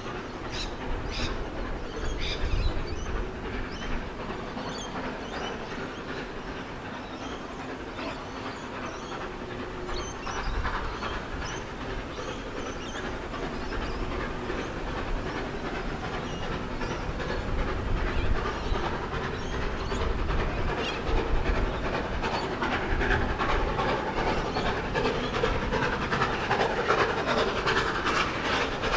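Steam-hauled passenger train behind NSW 32 class locomotive 3265 running past, its wheels clattering over the rail joints. It grows steadily louder through the second half, the clatter coming thick and fast near the end.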